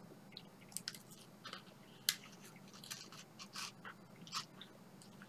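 A person biting into a soft marshmallow sweet and chewing it: faint, irregular wet mouth clicks and smacks, the loudest about two seconds in.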